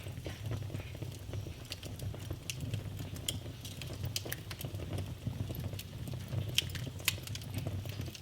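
Wood fire burning in a fireplace: irregular sharp pops and crackles over a steady low rumble of the flames.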